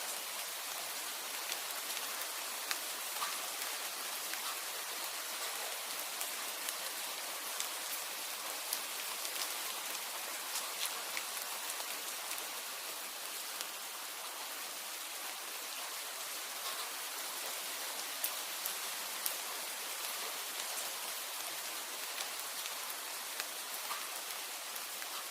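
Steady rain falling, an even hiss, with scattered sharp ticks through it.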